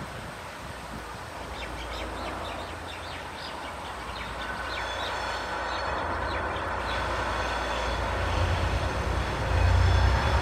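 Diesel locomotives of a grain train approaching, their low engine rumble growing steadily louder toward the end. Steady high-pitched tones, like wheel squeal, come in about halfway.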